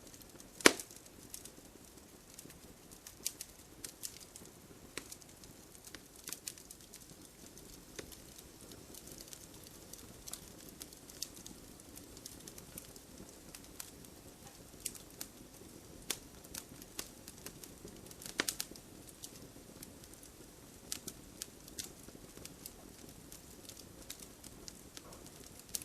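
Burning firewood crackling: irregular sharp pops and snaps over a soft, steady hiss of flame. One loud pop comes just under a second in, and a cluster of pops about 18 seconds in.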